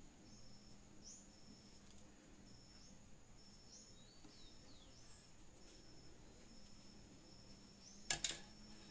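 Faint, repeated high chirps from a small bird outdoors, one short note roughly every second, with a few falling notes about halfway through. Two sharp clicks come close together a little past eight seconds and are the loudest sounds.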